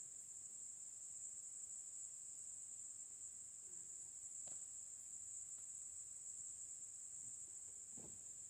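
Steady, high-pitched chorus of insects such as crickets, with a couple of faint knocks, one about halfway and one near the end.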